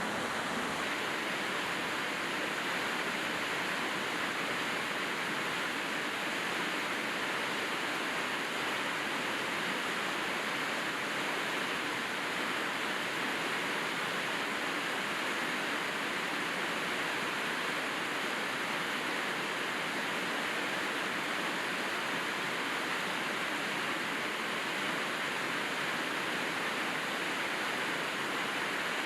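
Steady heavy rain falling, an even hiss with no separate drops or thunder standing out.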